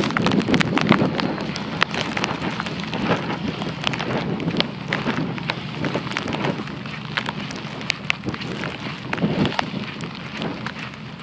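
Heavy storm rain hitting hard surfaces in many irregular sharp drops, over a steady low hum.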